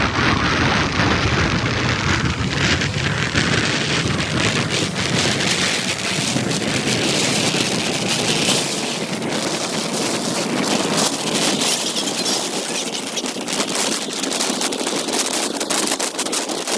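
Wind rushing and crackling over the microphone of a moving motorcycle, with road noise; the low rumble eases about six seconds in.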